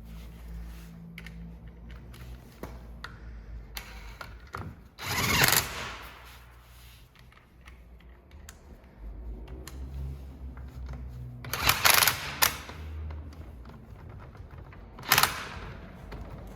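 DeWalt DCF892 cordless 1/2-inch mid-torque impact wrench hammering in three short bursts, about five, twelve and fifteen seconds in, with small clicks and handling noise between them.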